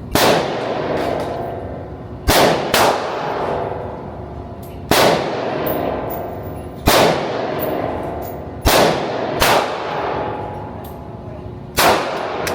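Eight gunshots at irregular intervals, some in quick pairs about half a second apart, each followed by a long echoing tail.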